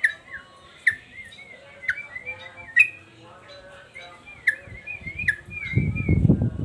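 Male yellow-vented bulbul (trucukan) singing persistently: bubbly warbled phrases broken by sharp, falling chip notes every half second or so. A low rumbling noise rises underneath near the end.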